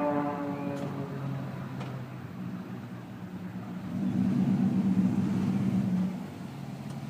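A motor engine droning steadily, louder for about two seconds before the sound drops back suddenly.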